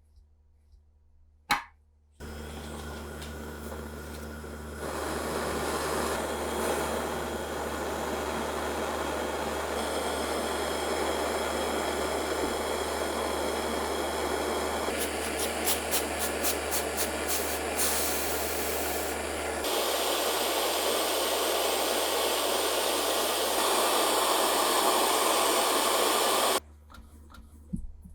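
An electric power tool working metal runs with a steady hum and grinding hiss. It starts suddenly a couple of seconds in and its tone changes several times as the work shifts. A quick regular ticking comes through for a few seconds in the middle, and the tool cuts off abruptly near the end.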